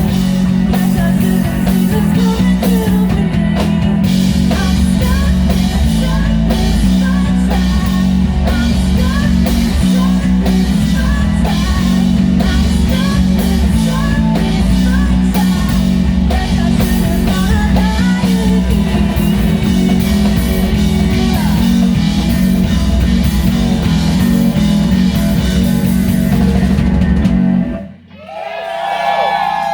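Live rock band playing loud, with electric guitar, bass and drum kit, until the song ends abruptly near the end. The audience then starts cheering and whistling.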